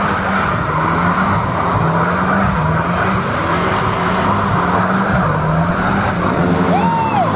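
Car engine held at high revs as the car does doughnuts, its note rising and dipping over and over, over the hiss of the rear tyres spinning against the tarmac.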